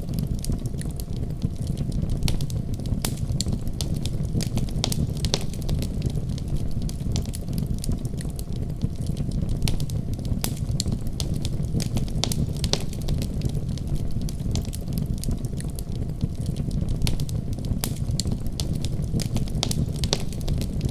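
Wood fire crackling steadily, with a low roar of flames under frequent irregular sharp pops and snaps.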